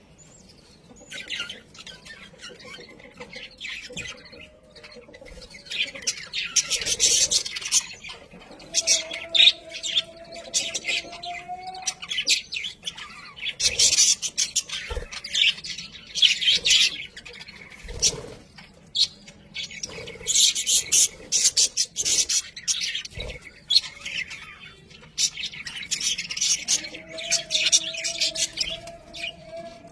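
Budgerigars chattering, a rapid run of short high chirps and squawks that comes in bursts with brief lulls between them.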